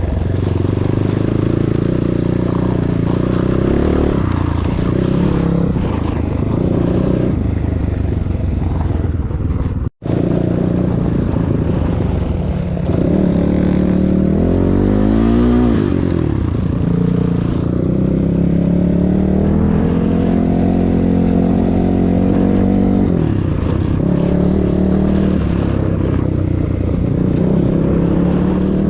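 Enduro motorcycle engine running under changing throttle as the bike is ridden on ice, its pitch rising and falling with the revs. There is one sharp rev up and back down about halfway through. The sound cuts out for an instant about ten seconds in.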